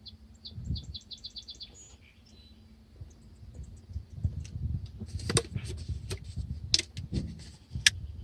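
A small bird chirps a quick run of short high notes for the first two seconds. From about four seconds in comes a run of sharp knocks and clatter of objects being handled, the loudest just before the end.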